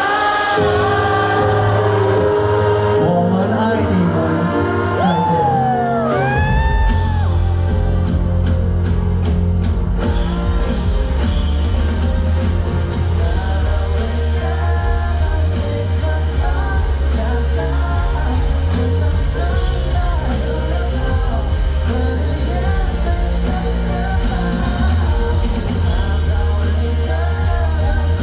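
Live pop-rock band performing a song with singing: voice over held chords at first, then bass and drums come in about six seconds in and the full band plays on.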